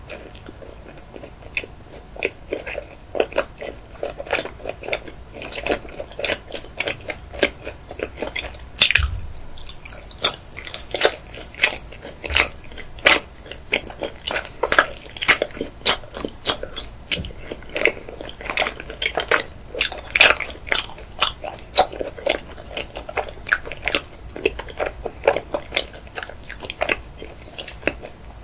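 Close-miked chewing of a chocolate macaron: crisp crunches and wet mouth clicks, sparse at first and growing louder and denser about a third of the way in.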